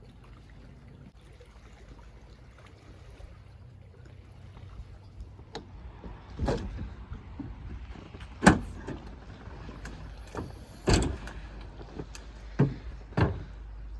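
A handful of sharp knocks and clunks, about five, spread over the second half, the loudest about eight and a half seconds in, over a steady low rumble.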